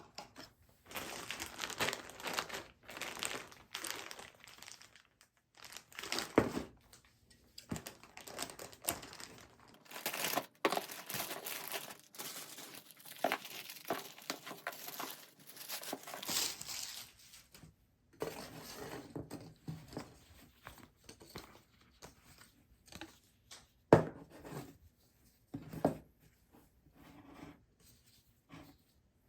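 Packaging crinkling and rustling as a parcel is unwrapped, in irregular bursts, with a single sharp knock about three quarters of the way through.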